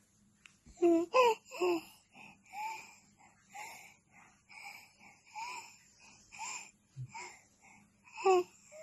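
A baby's high squeals with gliding pitch, followed by a string of short, wheezy squeaks about once a second, and one more loud squeal near the end.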